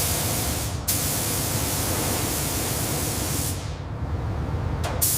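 Loud spray hiss from a spray gun coating a tractor frame, cutting off and starting again a few times, over a low steady hum.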